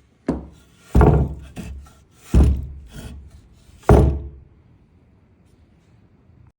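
Four heavy thuds a second or so apart, with lighter knocks between them, stopping about two-thirds of the way through.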